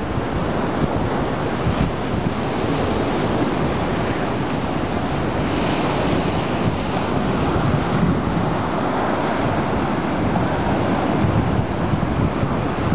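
Atlantic Ocean surf washing steadily onto the beach, with wind buffeting the microphone.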